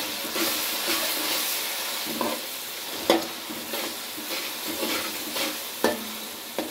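Browned onions with red chili and a little mince stock sizzling in a hot metal pot as a spatula stirs them. The sizzle is strongest in the first couple of seconds, and the spatula knocks sharply against the pan three times.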